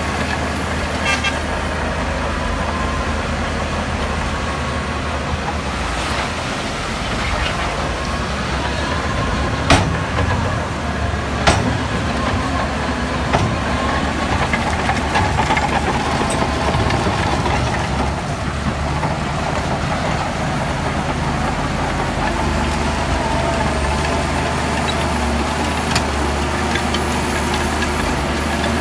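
Diesel engine of heavy earthmoving machinery running steadily. Two sharp metallic knocks come about ten and eleven and a half seconds in.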